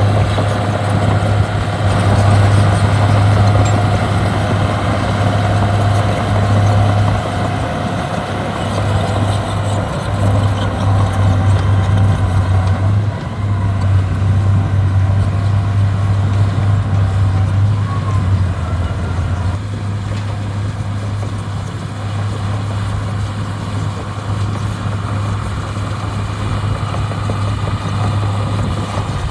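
Heavy diesel equipment engine running steadily with a constant low drone, its note shifting slightly a couple of times.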